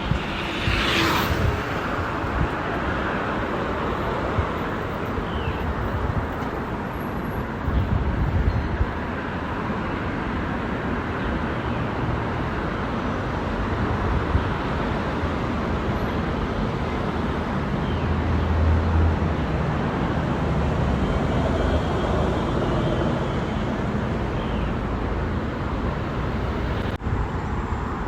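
Steady outdoor road and traffic noise, with a brief hiss about a second in.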